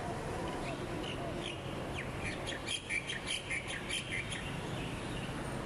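A bird chirping: a few scattered chirps, then a quick even run of about eight chirps about halfway through, over a steady low background hum.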